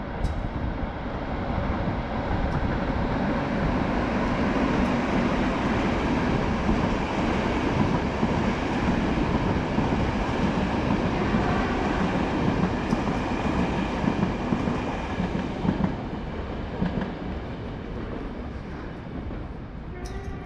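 Electric train passing, its rumble building over the first few seconds, holding, then fading away over the last few seconds.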